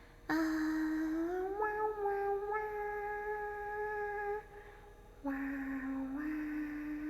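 A woman's voice holding two long wordless notes: the first slides up partway through and then holds, and after a short breath the second, lower note holds steady with a small step up in pitch.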